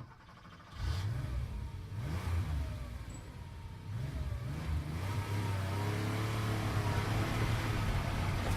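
A motor vehicle running, a steady low hum that starts about a second in, with a few rises and falls in pitch.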